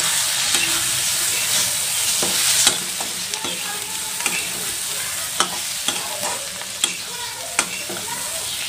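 Chopped onions, spices and ginger-garlic paste sizzling in oil in a metal kadhai while being stirred. A steady hiss runs throughout, with scattered sharp clicks and scrapes of the stirring utensil against the pan.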